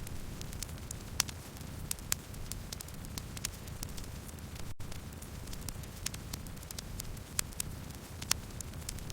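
Wood fire crackling: irregular sharp pops and snaps of burning wood over a steady low rumble of flames. There is a split-second gap in the sound about halfway through.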